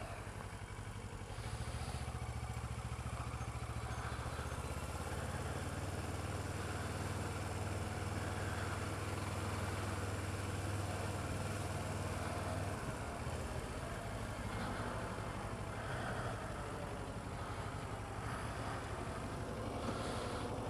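Kawasaki ER-6f's 650 cc parallel-twin engine running at steady low revs, under a steady hiss of road and wind noise. The engine note strengthens about a second and a half in and eases back a little over halfway through.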